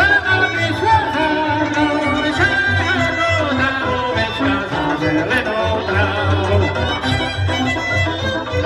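Slovak Horehronie folk music played live by a string band, led by fiddles over a steady low accompaniment.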